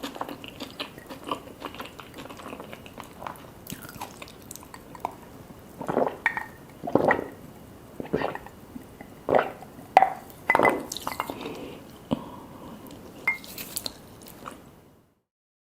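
Close-miked eating sounds: a person chewing, with small wet clicks and several louder smacking mouth sounds in the middle. The sound cuts off abruptly near the end.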